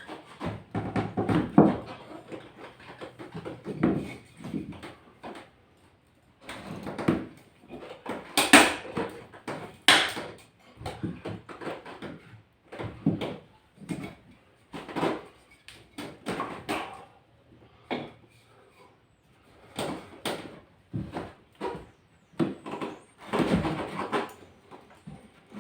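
A long run of irregular knocks, clunks and scrapes, as of hard objects being handled and set down, in clusters with short pauses between.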